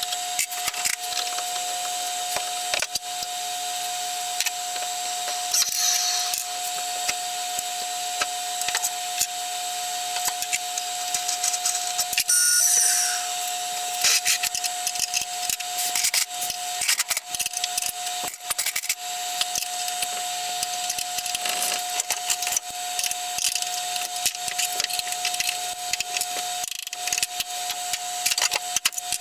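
Hand and power tools at work taking the band saw apart: many irregular clicks, taps and scrapes over a steady high-pitched hum.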